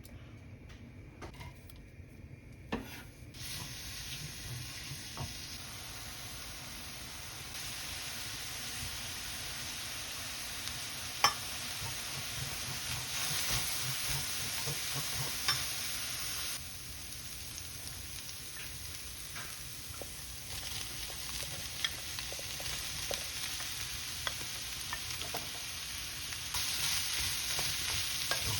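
Food sizzling as it fries in an oiled pan and is stirred, with now and then a sharp click of the utensil against the pan. The sizzle starts a few seconds in and grows louder soon after.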